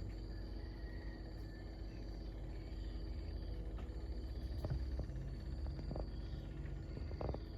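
Outdoor rural ambience: insects, likely crickets, trilling steadily at a high pitch over a low, steady rumble, with a few faint short sounds.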